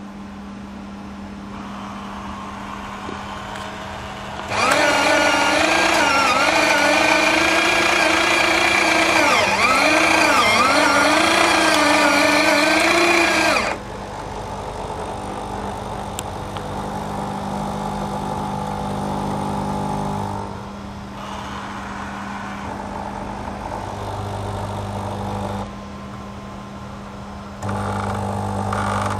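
Krups bean-to-cup coffee machine running, with a steady hum throughout. About five seconds in, a loud motor starts with a wavering pitch and cuts off sharply about nine seconds later. Quieter buzzing and whirring from the machine's mechanisms follow, changing every few seconds.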